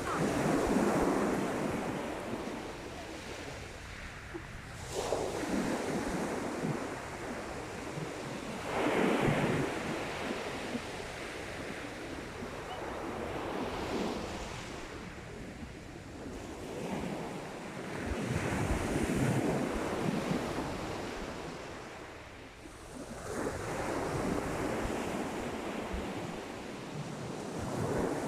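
Sea waves breaking and washing up the beach, a surge about every four to five seconds, with wind buffeting the microphone.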